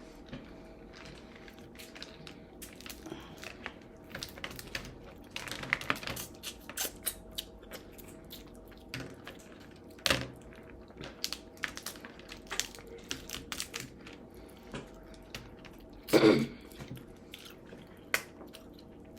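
Eating crab: an irregular run of small clicks and cracks as shells are broken and picked apart, mixed with chewing, with a sharper crack about halfway through.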